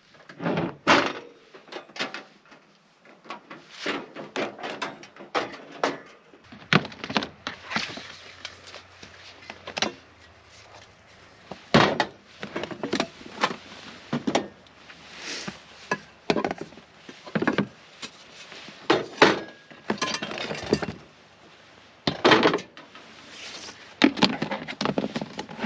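Gear being handled around a truck: a run of irregular knocks, thuds and clatters, some of them door-like thumps.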